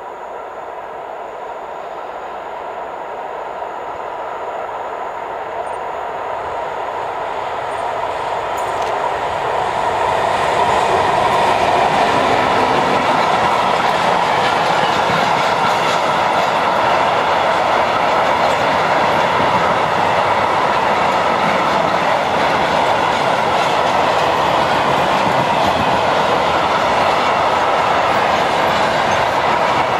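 Freight train passing: a BR 232 diesel locomotive grows steadily louder as it approaches over the first ten seconds or so. After that a long rake of covered freight wagons rolls by with a loud, steady wheel-on-rail rolling noise.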